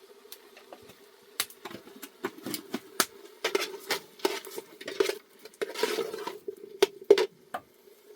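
Pots, dishes and utensils handled during cooking: a quick run of sharp clinks and knocks for about six seconds, with a short scrape about six seconds in.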